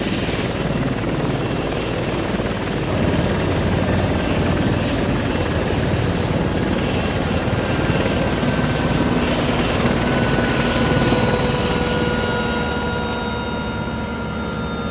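Syma X21W Pro mini quadcopter's motors and propellers buzzing steadily in flight. The sound gets louder about three seconds in, and a steady whine comes through in the second half.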